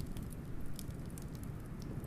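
Wood fire crackling, with a few scattered sharp pops over a steady low rumble of wind.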